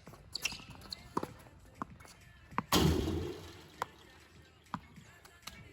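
Tennis ball knocks as a point is played, racket hits and bounces on the court, coming about every second or less. About three seconds in there is a louder, longer rushing thump.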